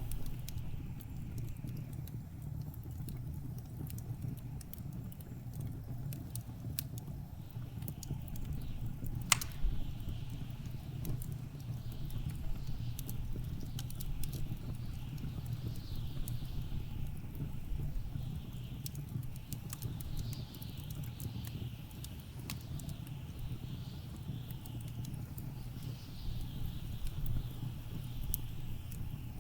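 Wood fire crackling with scattered sharp pops, one loud pop about a third of the way in, over a steady low rumble, while blizzard wind outside gusts in repeated whooshing swells.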